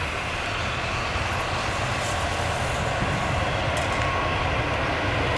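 Airbus A320 airliner's jet engines running: a steady rushing noise with a low rumble underneath, growing slowly louder as the aircraft comes closer.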